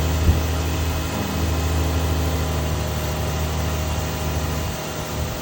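2012 Nissan Maxima's 3.5-litre V6 idling steadily and smoothly with a new intake camshaft sprocket fitted, its earlier rattle gone. A brief knock is heard about a third of a second in. The low engine hum drops away near the end.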